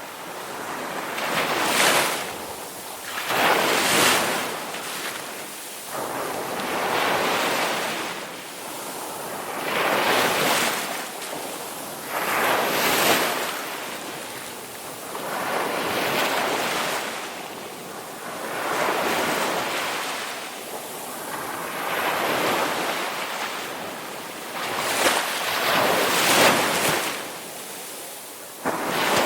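Ocean surf: waves breaking and washing in one after another. The rushing noise swells and ebbs about every two to three seconds.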